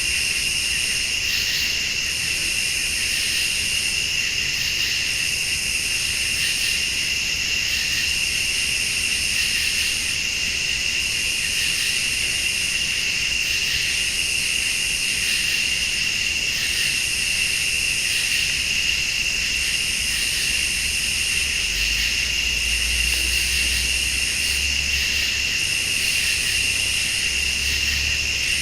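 Night chorus of crickets and other late-summer insects: a steady high trill, with a still higher buzz that repeats about every two seconds. A low rumble joins in during the last few seconds.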